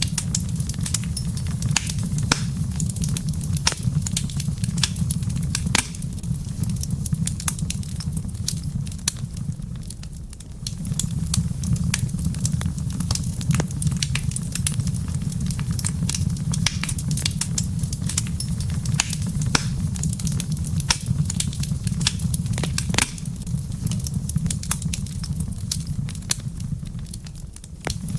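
Wood fire crackling in a fireplace: many irregular sharp pops and snaps over a steady low rumble, which dips briefly twice.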